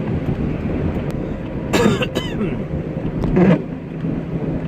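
A person coughing twice, about two seconds in and again about three and a half seconds in, over the steady hum and road noise of a moving vehicle heard from inside the cabin.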